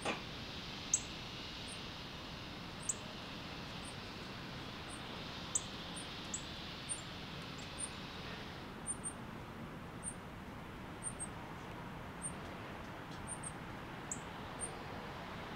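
Short, very high bird chirps repeating irregularly about once or twice a second, with a few sharp downward-sliding chip notes among them, over a steady high hiss that stops about eight and a half seconds in.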